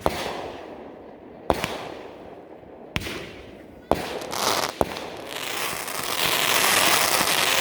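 Consumer fireworks going off: five sharp bangs about a second apart, then a dense crackling that starts about five and a half seconds in and grows louder.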